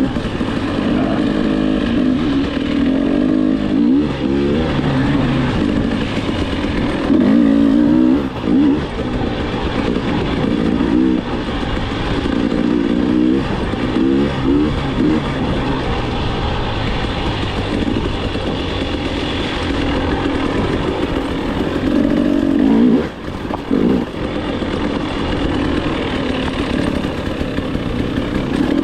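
Dirt bike engine under riding load, its pitch rising and falling over and over as the throttle is opened and closed, with a brief drop a little over three-quarters of the way through.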